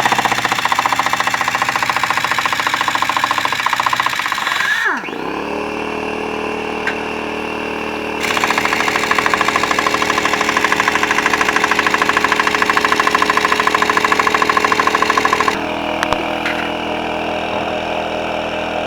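Half-inch air impact wrench hammering in rapid bursts, about five seconds at first and again for about seven seconds later. An air compressor starts running steadily about five seconds in and keeps going under the second burst.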